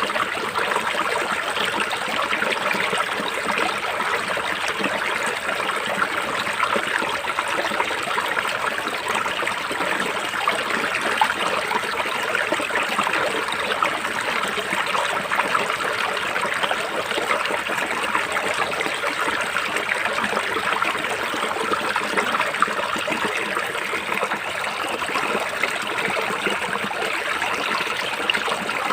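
River water flowing and splashing in a steady rush.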